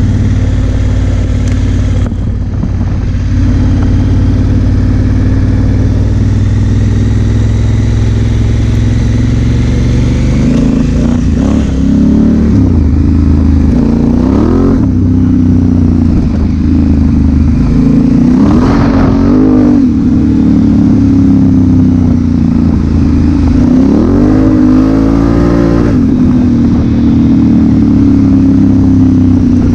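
A 2016 Honda Africa Twin CRF1000L's parallel-twin engine running under way. It holds steady for about the first ten seconds, then revs up and drops back again several times as the throttle is worked.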